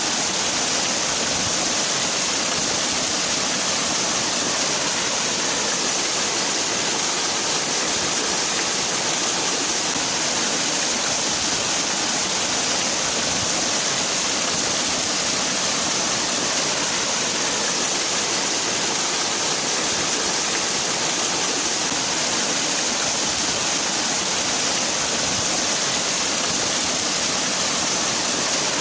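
Waterfall: water falling and splashing in a steady, unbroken hiss, brightest in the high range.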